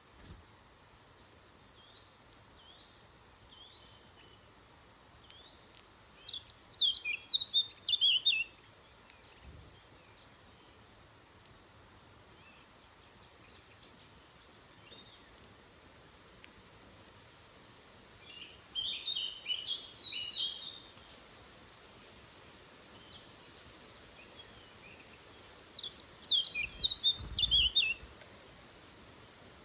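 A woodland songbird singing three short phrases of rapid high notes, each about two seconds long and roughly ten seconds apart. Fainter scattered chirps from other birds come in between.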